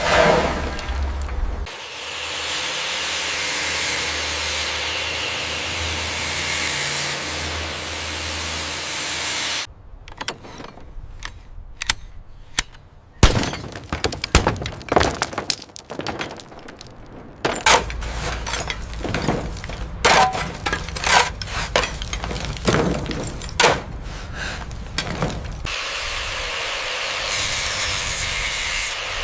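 Renovation work noise: a long steady hiss, then a dense run of sharp cracks and knocks of breaking and tool strikes, then steady hiss again near the end.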